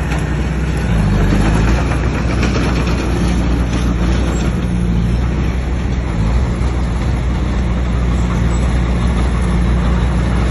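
Heavy diesel engine of a bulldozer running steadily at working revs, a deep, even drone with a slight rise in level about a second in.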